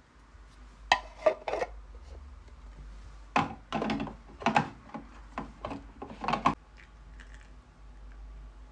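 Knocks and clatters of objects being handled: three short ones about a second in, then a denser run of about eight over the next few seconds.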